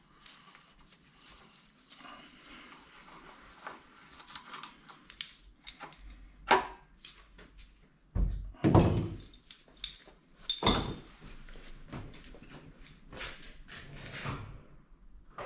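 Clinks and knocks of tools and metal engine parts being handled, with a few louder thunks a little past halfway.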